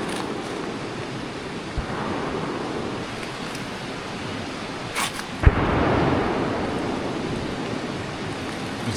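Steady rushing of a mountain creek. About five seconds in, a sharp crack and then a low thump from a gunshot at a nearby shooting range.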